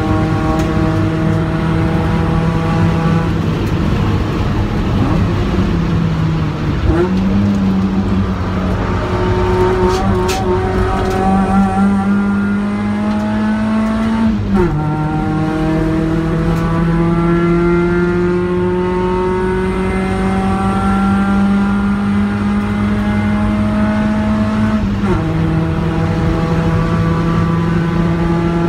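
Ford Focus engine heard from inside the cabin, driven hard on a race track over steady road and wind noise. Its pitch climbs slowly and drops sharply at gear changes, about halfway through and again near the end.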